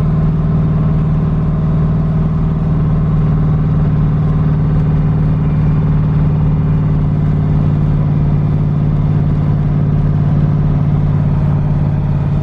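LS V8 of a twin-turbo Fox-body Mustang running at a steady light-throttle cruise, its unmuffled exhaust droning at an even pitch, heard from inside the car.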